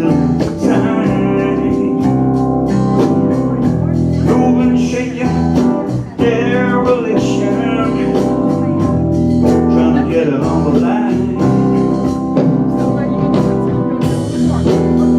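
Live band music: sustained organ chords under a sung melody.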